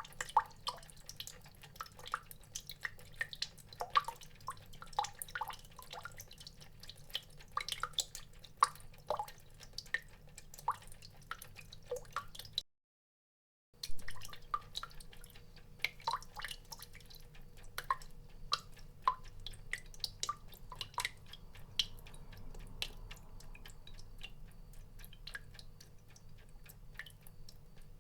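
Water drops falling irregularly, each a short plink. The sound cuts out completely for about a second near the middle, then the drips go on, closer together and more even near the end.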